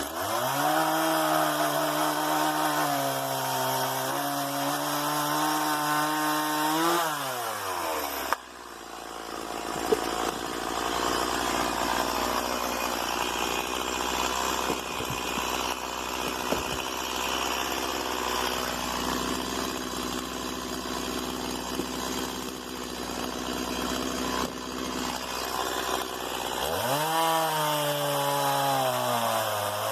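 STIHL MS 170 small two-stroke chainsaw (1.2 kW) running at high revs with a slightly wavering note, dropping to a steady idle about eight seconds in. A few sharp knocks are heard during the idle, and near the end the engine revs back up to high speed.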